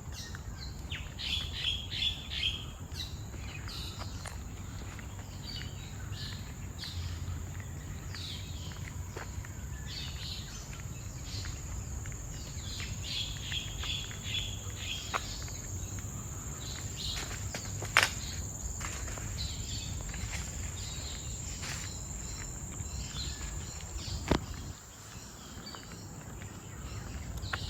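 Tropical forest ambience: a steady high-pitched insect drone with bird chirps and calls coming and going. Two sharp clicks stand out, one about two-thirds of the way through and one near the end.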